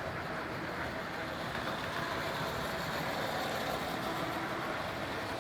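Model train running along the layout's track, a steady running noise of wheels and motor that swells slightly in the middle.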